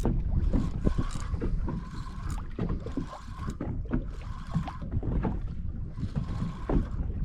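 A small boat at sea: water slapping against the hull with irregular short knocks over a steady low rumble, and wind on the microphone.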